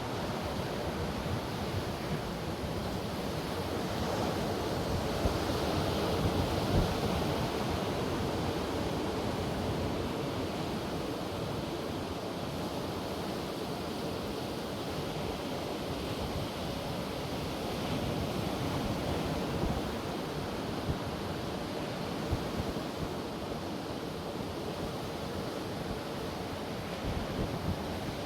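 Ocean surf washing onto a beach, with wind buffeting the microphone. The waves swell louder about five seconds in.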